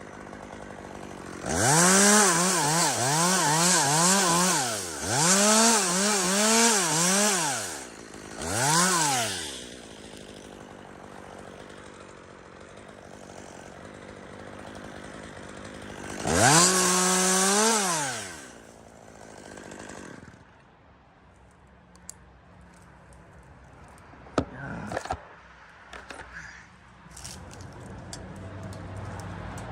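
A chainsaw cutting into spruce wood. The engine revs in quick surges, its pitch dipping and rising under load for several seconds, then revs once more briefly and again about halfway through, idling low between the surges. After about twenty seconds it falls quiet, and a few sharp knocks follow near the end.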